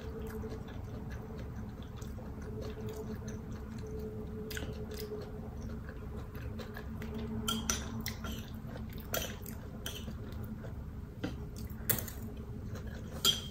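Close-miked chewing of a mouthful of cauliflower fried rice, with a handful of sharp clicks in the second half. A faint steady hum runs underneath.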